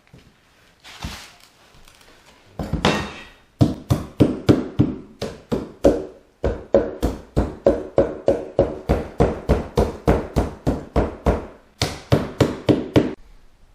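Hammer blows on a wooden subfloor in quick runs of about three to four strikes a second, broken by two short pauses, knocking out the last broken pieces of floor around the cut-out hole. A brief scraping crunch comes just before the first run.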